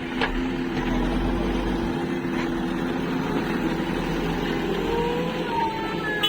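Heavy diesel engine running steadily, with a brief rise in pitch about five seconds in.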